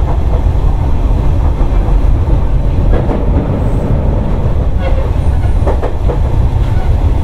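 Sotetsu old 7000 series electric train running, heard from inside the car: a steady low rumble of motors and wheels on the rails, with a few clacks from the wheels, about three and five seconds in.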